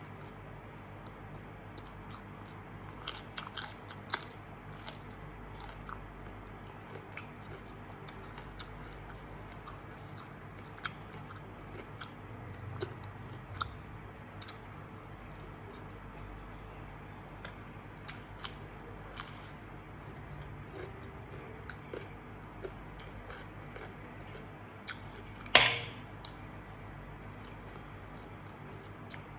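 A person chewing and biting food close to the microphone, with scattered small crunches and clicks over a low steady hum. One much louder sharp noise comes near the end.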